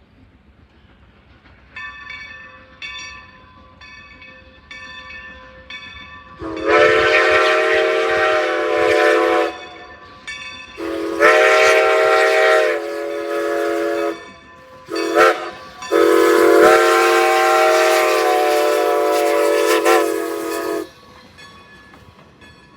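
Steam locomotive's chime whistle blowing four blasts, long, long, short and long, the standard signal for a grade crossing. Fainter short tones repeat a few times before it.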